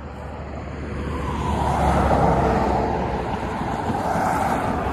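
A road vehicle passing: its tyre and engine noise swells to a peak about two seconds in, then eases slightly and runs on.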